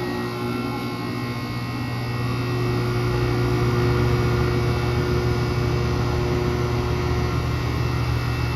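A Carrier Comfort central air-conditioner condenser unit (compressor and fan) running just after its first start of the season: a steady low hum with a few fainter steady tones above it, getting a little louder over the first few seconds and then holding.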